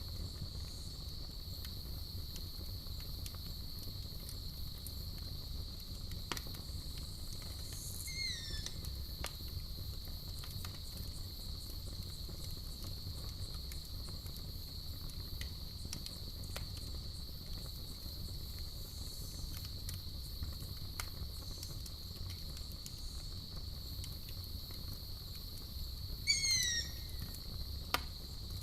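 Night ambience of a steady cricket chorus over a campfire's low rumble and scattered crackles. A short run of falling chirps sounds about eight seconds in and again, louder, near the end.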